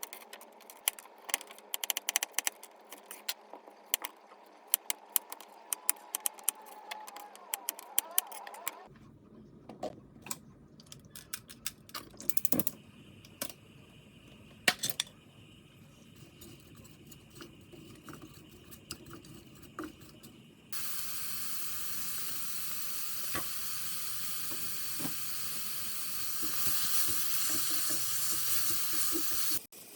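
Kitchen cooking sounds: quick runs of clicks and taps of utensils on cookware, then sparser clinks, then food sizzling steadily in a hot pan, which starts suddenly about two-thirds of the way in and is the loudest part.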